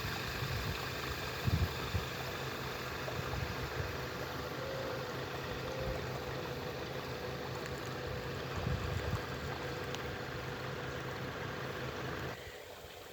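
Creek water running steadily with an engine idling underneath. A couple of low thumps about 1.5 and 9 seconds in, and the sound drops away abruptly near the end.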